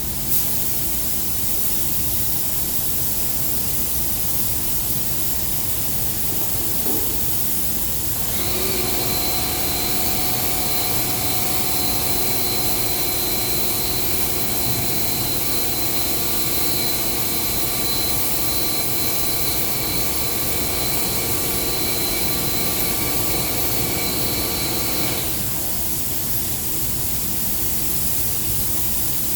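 Steady hiss of a spray gun's air while silver-mirror paint is sprayed. From about eight seconds in until about twenty-five seconds, a motor's steady whine runs with it, then stops.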